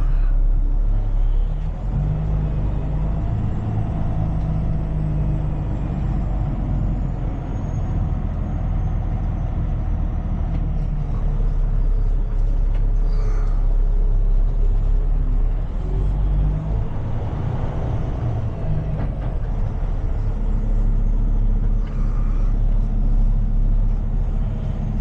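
Tow truck's engine running under load, heard from the cab, its pitch stepping up and down several times as the revs change.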